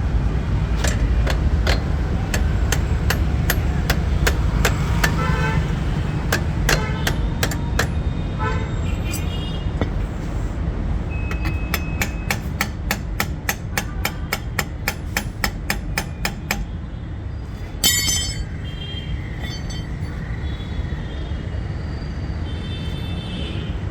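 Road traffic: a steady low engine and road rumble with several vehicle horns honking, the loudest about 18 seconds in. For the first 16 seconds or so a run of sharp, regular clicks sounds over it, two to three a second.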